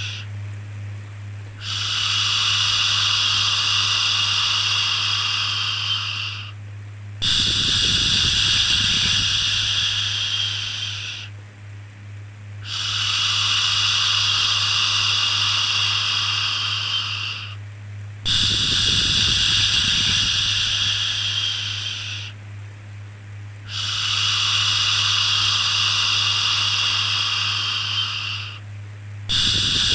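Long drawn-out 'shhh' shushing sounds, each lasting four to five seconds with a brief pause between, repeating about six times, over a steady low hum.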